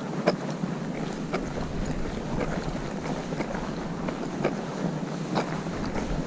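Footsteps crunching in snow, irregular steps about one or two a second, over steady wind rumbling on the microphone.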